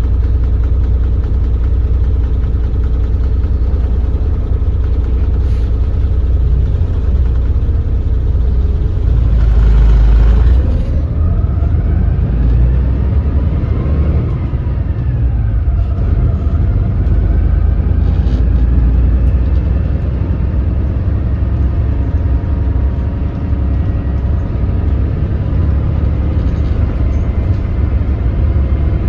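Doosan DL08K diesel engine of a Daewoo BS106 city bus running at low speed, heard on board. About ten seconds in there is a loud rush of noise, then the engine note rises and falls a couple of times as the bus pulls away and shifts gears at low rpm.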